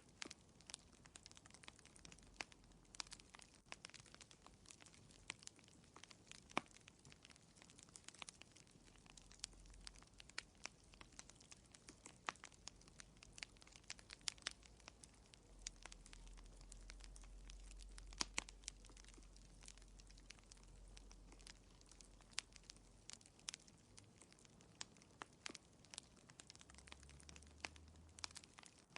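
Wood fire crackling in a fireplace: faint, irregular small snaps and pops, several a second, over a soft hiss.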